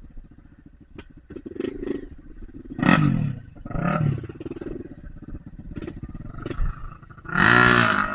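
Trail motorcycle engine running low and revved in short bursts: two quick revs, then a longer, louder rev near the end.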